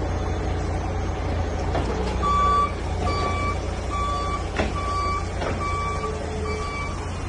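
Electronic beeping, one steady pitch repeated a little more than once a second, starting about two seconds in, over a steady low rumble, with a few sharp knocks.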